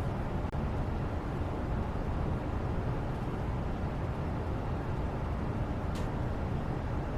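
Steady background noise, a constant low rumble with a hiss above it and no changes, with one faint short click about six seconds in.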